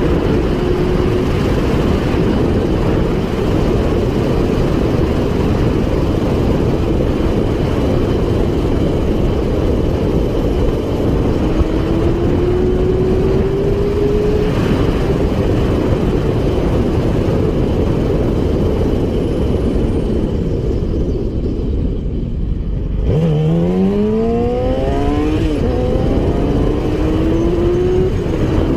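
Motorcycle engine running at speed under a loud, steady rushing noise, its note climbing slowly. About twenty seconds in it eases off, then revs up hard through several quick upshifts, each one a short rising sweep.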